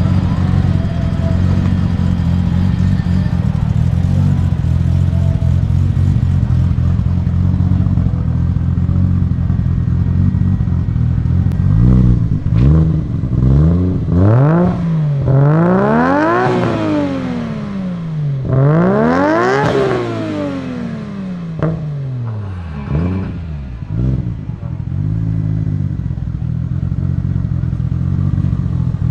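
Performance car engine idling, then revved hard: a few quick revs, two long climbs to high revs that fall back, then some short blips, with a few sharp cracks between revs, before it settles back to idle.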